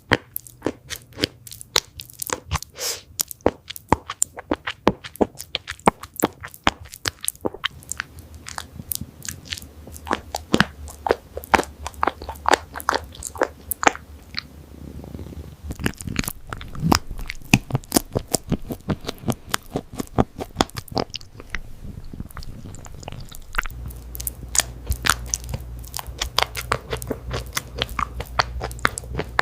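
Cat chewing and biting salmon sushi up close: a quick, irregular run of wet clicks and crunches, several a second, with a low steady hum underneath at times.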